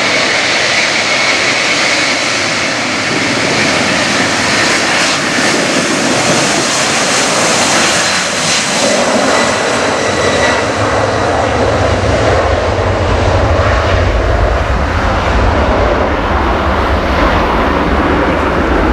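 Jet engines of an Airbus A300-600 freighter at takeoff power: a loud, steady roar with a high whine over it, and a deep rumble that builds from about eleven seconds in.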